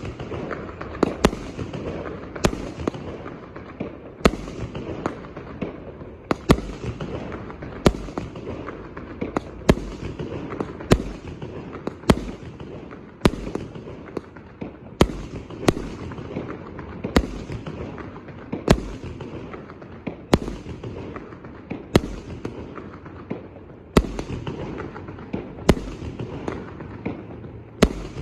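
A 1-inch, 198-shot consumer firework cake firing a long run of shots: sharp bangs about once a second, some louder than others, over a continuous hissing, crackling noise.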